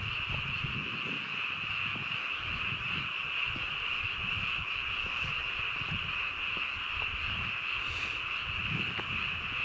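A dense, steady chorus of frogs calling in spring fields at night, with soft low thuds of footsteps underneath.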